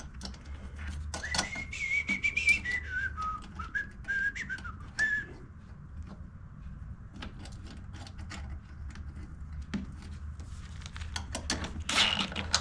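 A person whistling a short wandering tune for about four seconds, over scattered light clicks and taps of hand tools and a low steady hum.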